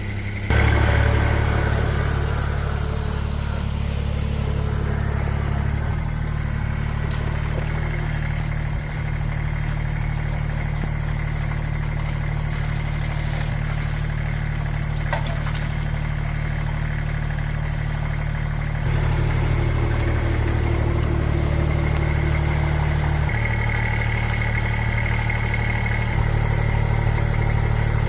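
An engine running steadily at idle, its tone changing abruptly several times.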